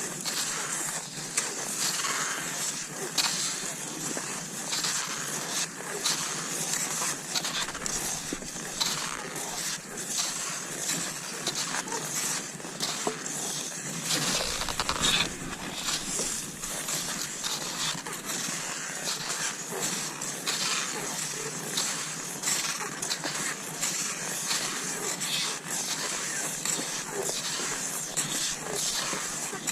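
Cross-country skis sliding over snow, a steady hiss broken by irregular crunches and pole plants.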